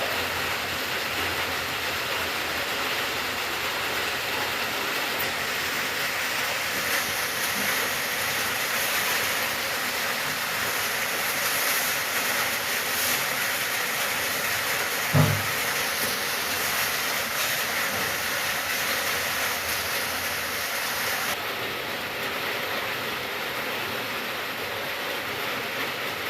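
Steady rain falling, an even hiss, with a single short low thump a little past halfway through.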